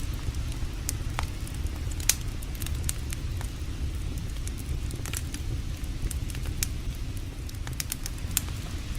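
Campfire crackling, with sharp pops at irregular moments, the loudest about two seconds in, over a steady low rush of creek water.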